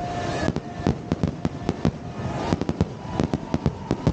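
Fireworks shells and salutes bursting in rapid, irregular succession, many sharp bangs a few per second with clusters of quick reports.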